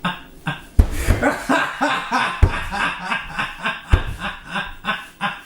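A person laughing in a quick, rhythmic run of short ha-ha pulses, about five a second, with a few low thumps among them.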